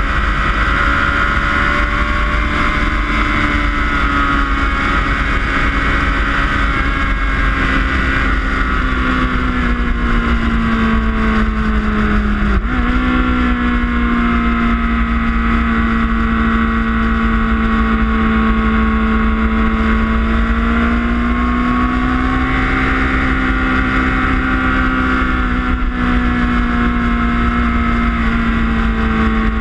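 Suzuki Hayabusa's inline-four engine running at cruising revs under way, with low wind rumble. The revs sag slowly, then jump up sharply about twelve and a half seconds in. Later they rise and fall gently.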